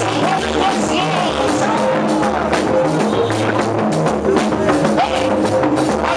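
Live church band music with a drum kit and bass keeping a steady beat, accompanying a choir's song.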